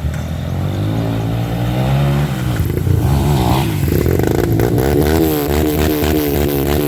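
Off-road motorcycle engine revving hard, its pitch rising and falling over and over.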